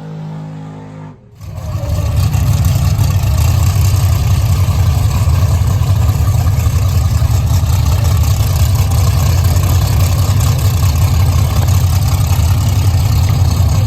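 A car engine's held tone ends with a brief cut about a second in. A loud engine then runs steadily up close with a deep rumble and a lot of noise.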